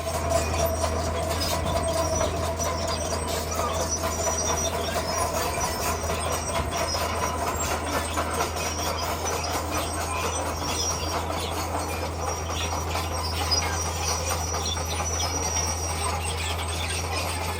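Crawler bulldozer working: its diesel engine runs steadily under a constant clatter of steel tracks and stone, with a squeal that is strongest in the first few seconds.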